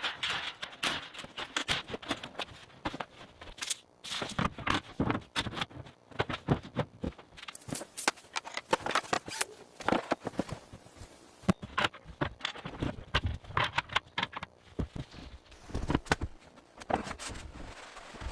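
Woodworking and construction work: a fast, irregular run of sharp clicks and knocks with some scraping.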